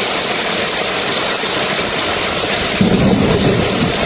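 Heavy downpour hissing steadily on a car being driven through it, with a louder low rumble coming in about three seconds in.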